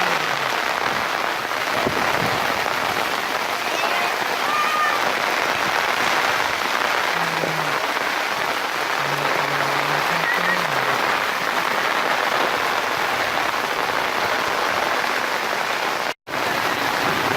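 Steady rain pouring down, an even hiss of drops on surfaces, cutting out for an instant near the end.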